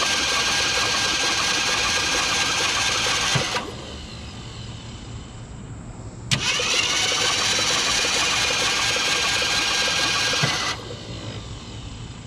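Ford Galaxie engine cranked by its starter motor with the spark plugs out, in two bursts of about four seconds each with a pause between, each opening with a sharp click as the starter engages. The engine has just been freed from seizing and is being turned over to spread the oil put down the cylinders.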